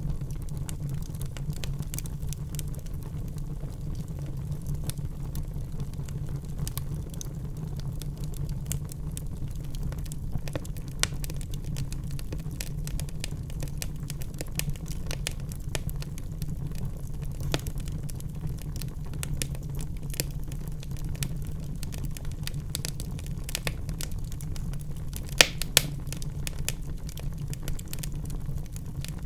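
Wood fire burning in a fireplace, crackling with frequent small pops over a steady low rumble of the flames; two sharper snaps come close together near the end.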